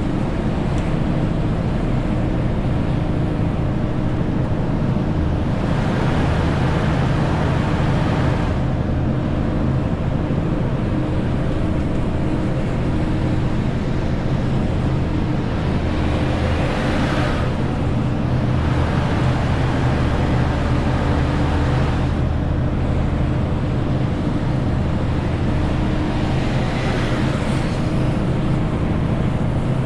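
Renault T520 truck's six-cylinder diesel engine running steadily while hauling a 40-tonne load, over a haze of road and tyre noise. A hiss swells up three times, each for about two seconds.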